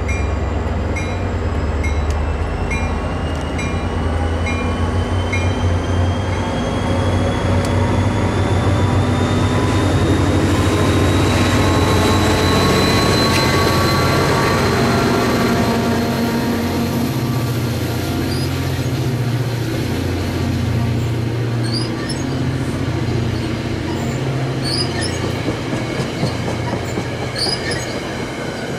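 NJ Transit diesel commuter train moving through the station, its locomotive running with a low hum and a whine that rises in pitch as it gathers speed. A bell rings in steady repeated dings for the first few seconds, and short high wheel squeals come from the cars near the end.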